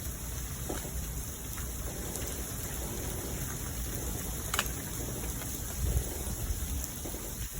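Winter storm: a steady hiss of falling freezing precipitation, with gusty wind rumbling on the microphone and a few sharp ticks, the sharpest about four and a half seconds in.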